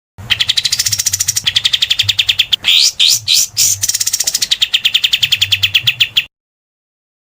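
Songbird calling in a rapid, harsh chattering run of about ten sharp notes a second, broken in the middle by three upward-sweeping whistled notes. It cuts off abruptly about six seconds in and starts again near the end, like an edited loop of a 'tembakan kasar' (rough shot) call used to train competition songbirds.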